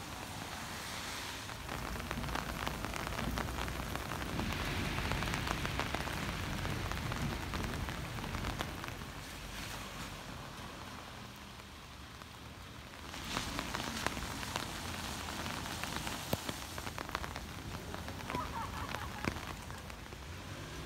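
Steady rain falling, with many small drops pattering and tapping on surfaces, heavier from about two-thirds of the way in.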